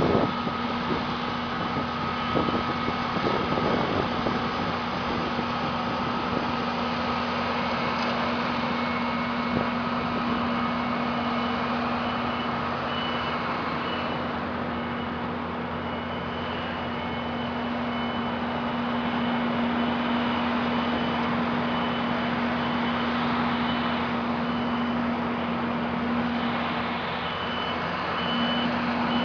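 Heavy construction vehicle engine running steadily, with a reversing alarm beeping repeatedly from about halfway through.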